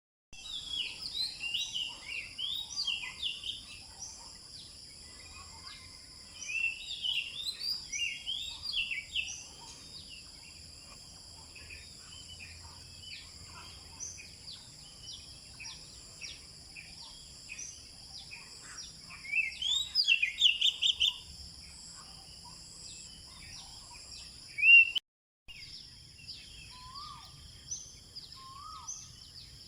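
Several wild birds singing and calling at dawn, with bouts of quick chirps and trills. Over them runs a steady high-pitched drone. There is a brief dropout near the end.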